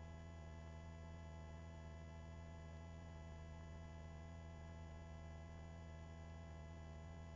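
Faint, steady helicopter cabin drone heard through the headset intercom feed: a low hum with several fixed tones above it and no change in pitch or level.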